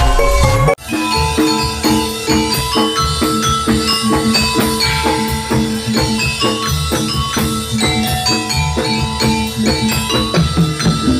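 Javanese jathilan gamelan music played loud through a sound system. Metal-keyed mallet instruments ring a fast repeating pattern over drums. Just under a second in the music drops out for a moment, then the pattern starts.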